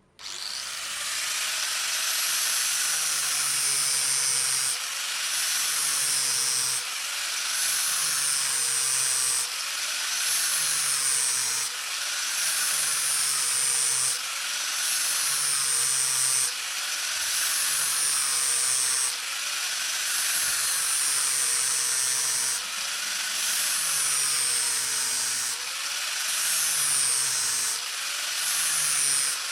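Electric power tool starting abruptly and running steadily, its sound swelling and easing in a regular cycle every two to three seconds as the work is pressed against it and drawn back, as in grinding or sanding metal.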